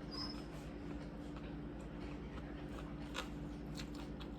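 Steady low electrical hum with a few faint scattered clicks and ticks. One sharper click comes about three seconds in.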